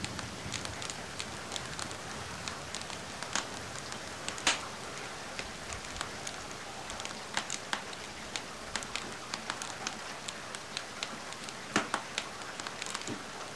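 Steady rain hiss mixed with the irregular crackles and pops of a wood fire burning in a fireplace, the loudest pops about four and a half seconds in and again near the end.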